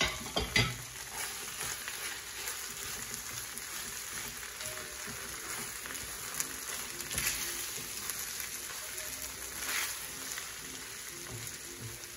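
Fried rice with scrambled egg sizzling in a hot stainless-steel skillet while a wooden spatula stirs and scrapes through it, with a few louder scrapes along the way.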